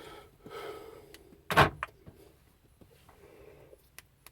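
Key and control handling in a 2008 Mercedes Sprinter's cab just after the engine is shut down: a few light clicks and one short thud about one and a half seconds in.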